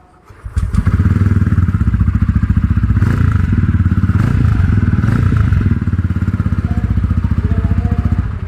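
TVS Ronin's single-cylinder engine coming to life about half a second in. It runs with a fast, even pulsing exhaust beat, then dies away at the end.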